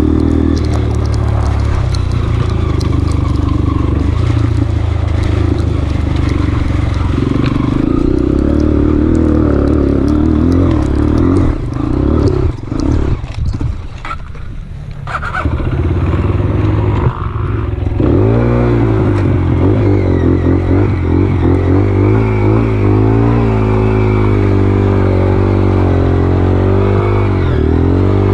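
Honda CRF230F's single-cylinder four-stroke engine running, recorded on board. About halfway through it drops off to a quieter stretch for a few seconds, then picks up again with the revs repeatedly rising and falling.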